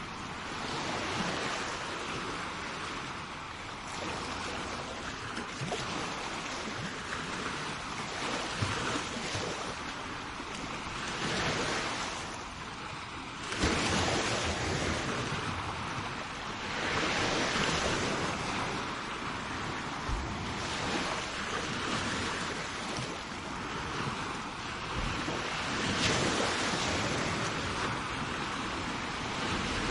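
Sea waves breaking and washing onto the shore in repeated surges every few seconds, with the sharpest break about halfway through. Wind buffets the microphone.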